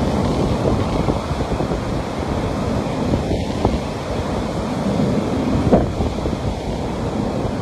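Ocean surf: waves washing onto a beach in a steady rush, with wind buffeting the microphone.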